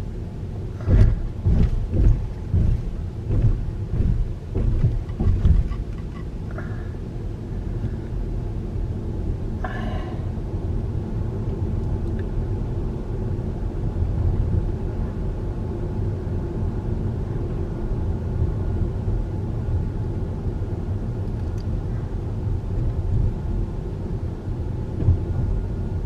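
Car tyres running over transverse rumble strips, heard from inside the car as a series of heavy low thumps about twice a second for the first six seconds. This gives way to steady road rumble.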